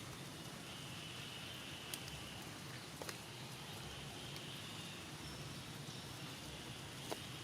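Steady outdoor ambience: a soft hiss with a high, insect-like buzz that swells and fades every second or two, and three sharp ticks, about two, three and seven seconds in.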